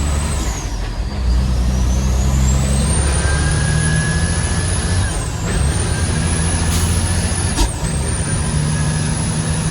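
Heavy diesel truck engine pulling through the gears. A high whine climbs steadily and drops sharply at each gear change, about five and eight seconds in, over the low engine drone.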